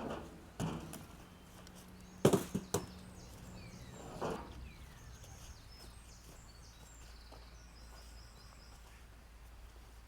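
A few sharp knocks and thuds, the loudest a close pair about two seconds in and another a couple of seconds later, then a faint steady low hum.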